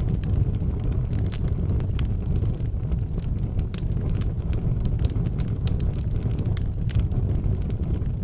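Wood fire burning in an outdoor fireplace: a steady low rumble of flames with frequent, irregular sharp crackles and pops from the burning wood.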